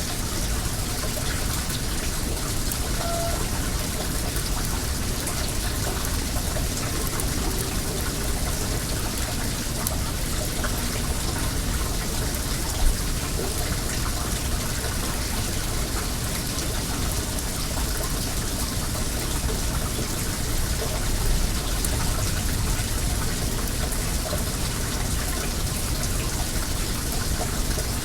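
Well water running with a steady splashing hiss, over small crackles from a wood bonfire, and one sharper crack about thirteen seconds in.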